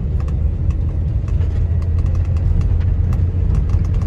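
Car driving on a gravel dirt road, heard from inside the cabin: a steady low rumble of engine and tyres, with scattered small clicks and ticks over it.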